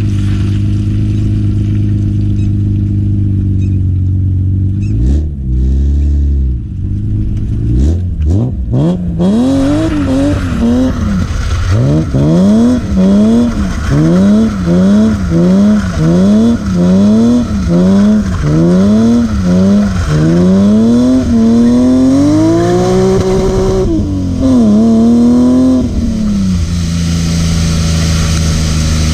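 BMW E36 M3's S50B30 straight-six, heard raw from the exhaust. It runs steadily at first, then is revved up and dropped again about once a second for a long run of pulses while the car is drifted. It settles back to a steady low running note near the end.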